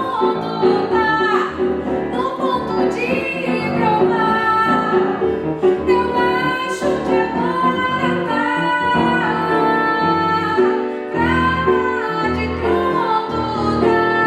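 A woman singing a Brazilian popular song in held, wavering notes over instrumental accompaniment.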